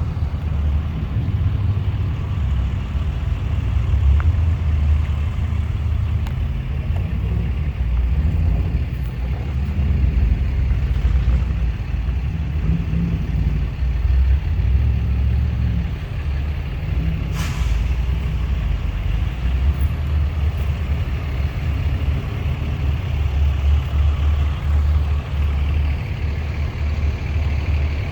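Heavy truck engines running with a deep, steady rumble. A brief hiss comes about two-thirds of the way through.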